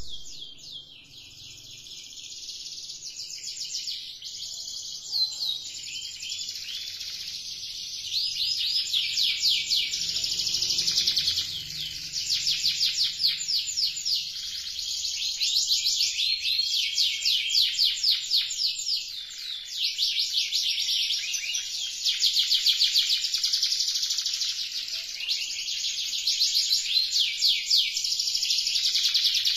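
Domestic canary singing almost without a break in long, fast trills and rolls of high repeated notes.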